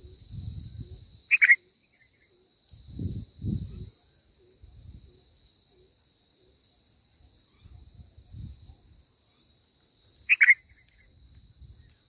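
Steady high insect drone, with two short, sharp bird chirps about nine seconds apart. Low muffled rumbles come and go between them.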